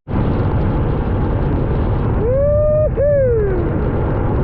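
Steady roar of wind on the microphone and scooter engine noise while riding, with a horn-like tone sounding twice a little after halfway: the first rises and holds, the second falls away.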